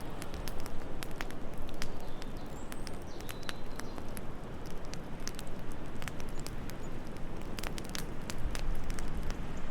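Wood fire crackling, with irregular sharp pops and snaps, over a steady low rush of wind.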